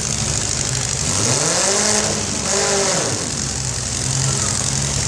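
Demolition derby car engines running, one of them revving up and back down between about one and a half and three seconds in, over the steady running of the others.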